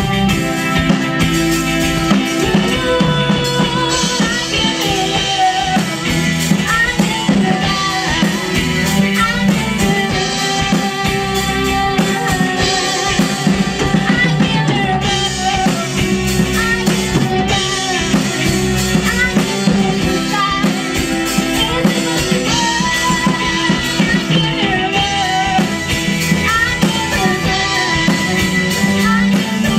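Live rock cover band playing a song with drum kit, bass and guitars, the drums keeping a steady beat, with a vocal or lead line over it.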